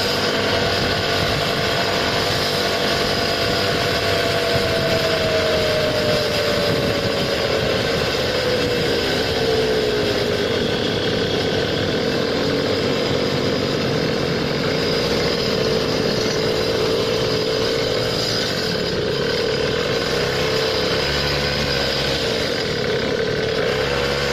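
Small motorized-scooter (goped) engine running steadily while riding, its pitch easing down a little about a third of the way in and then holding.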